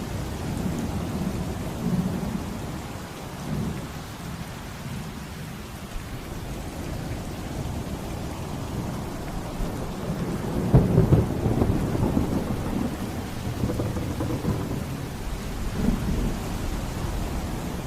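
Thunderstorm: rain falling steadily under rolling thunder, the rumble swelling loudest about eleven seconds in.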